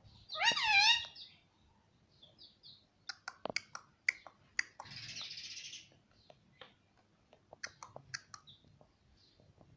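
Indian ringneck parrot giving one loud call with a wavering pitch about half a second in, followed by a few soft chirps, scattered sharp clicks and a brief hiss.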